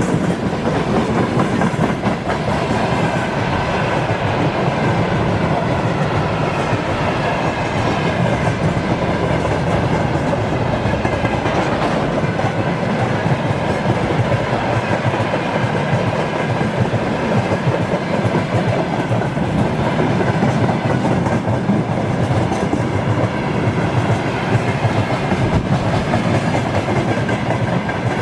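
Freight train rolling by: steady, loud noise of wagon wheels on the rails.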